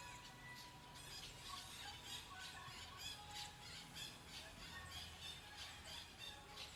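Red-breasted parakeets giving a steady run of short, harsh calls, two or three a second, faint.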